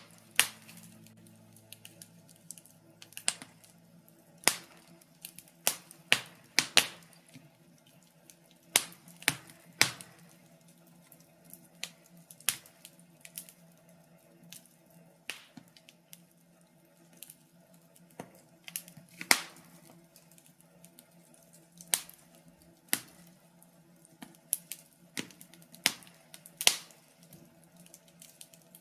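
Wood fire of birch logs crackling in a fireplace, with irregular sharp pops and snaps, some much louder than others, over a faint steady low hum.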